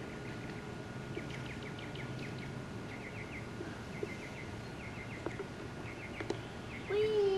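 A songbird singing quick groups of short chirps, repeated every second or so, over a steady faint hum. Near the end a high voice calls out, drawn out and sliding in pitch.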